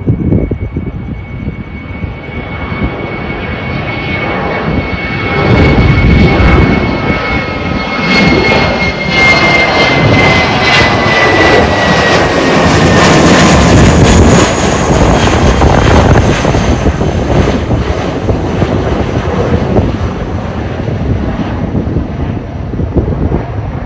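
Jet airliner's engines at takeoff thrust as it goes down the runway and past: a loud jet roar with a high engine whine whose pitch drops as the plane passes, loudest through the middle, then easing off.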